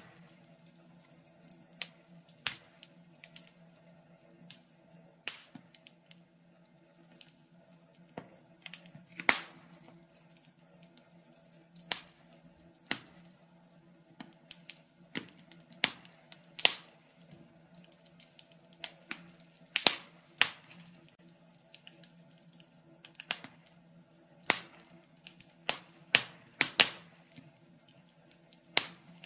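Wood fire in a fireplace crackling, with irregular sharp pops and snaps over a faint steady low hum.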